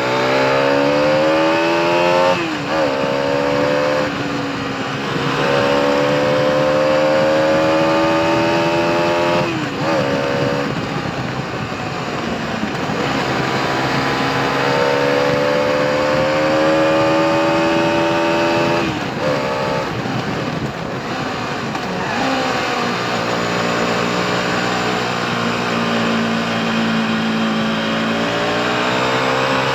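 UM DSR 125 supermoto's 125 cc single-cylinder four-stroke engine through its stock exhaust, pulling up through the gears. Its pitch climbs and then drops sharply at three upshifts, and after the last it settles into steadier, lower cruising revs.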